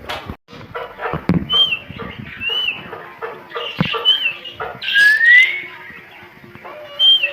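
Bird calls: several short whistled chirps that rise and fall, and one longer rising call about five seconds in, over scattered taps and knocks.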